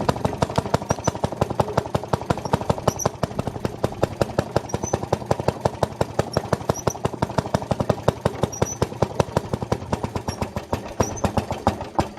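Maytag Model 92 single-cylinder two-stroke engine running a wringer washer, popping out a rapid, even string of sharp exhaust beats. It quits abruptly at the very end, which the owner puts down to a carburetor out of adjustment or an air leak at the gasket.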